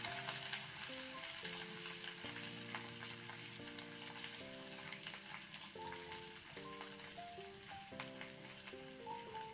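Ginger-garlic paste with cumin and fennel seeds sizzling as it fries in hot ghee in a metal kadai, stirred now and then with a steel ladle that gives a few light clicks. Soft background music with held notes plays underneath.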